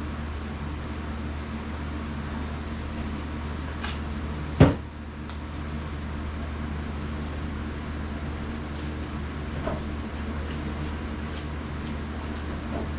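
Steady low mechanical hum from a fan or similar machine running in the shop. One sharp knock stands out about four and a half seconds in, and there is a faint click near ten seconds.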